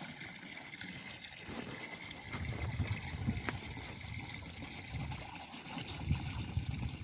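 Water trickling and sloshing, with an irregular low rumble and a single sharp click a little past the middle.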